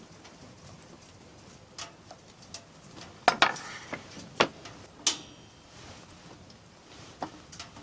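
Scattered light clicks and knocks of objects being handled, with a cluster of sharper, louder knocks about three to five seconds in.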